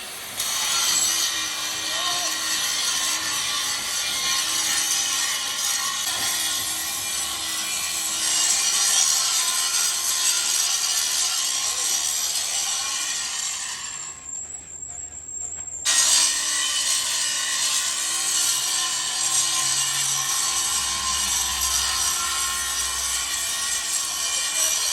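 Steady workshop machine noise, like a power tool cutting or sawing. It stops for about two seconds about halfway through, then starts again.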